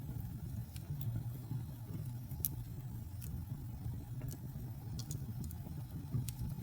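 Wood fire burning in a fireplace: a steady low rumble of flames with scattered sharp crackles and pops, the loudest pop about two and a half seconds in.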